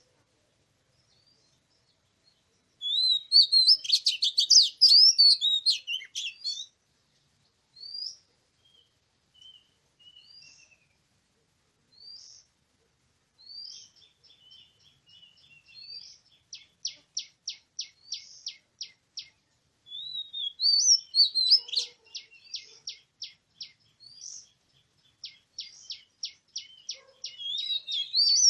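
Oriental magpie-robin singing: a loud burst of varied, high whistled song, a few short single notes, then long runs of rapid rattling notes at about five a second, broken by more bursts of warbling song.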